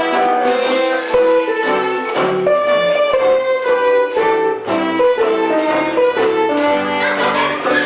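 Live band music: a violin plays a quick melody over guitar accompaniment.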